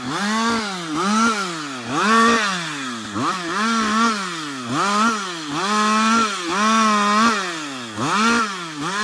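Two-stroke chainsaw cutting wood, its engine revving up to full speed and then dropping in pitch as the chain bites and pulls it down under load. The rise and fall repeats about once a second.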